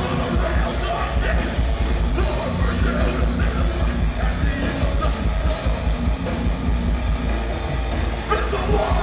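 Metalcore band playing live at full volume: distorted electric guitars, bass and drums in a dense, heavy mix.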